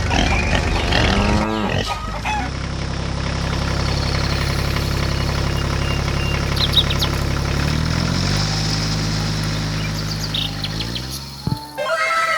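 Tractor diesel engine idling steadily, then revving up to a higher steady speed about eight seconds in, and cutting off suddenly near the end.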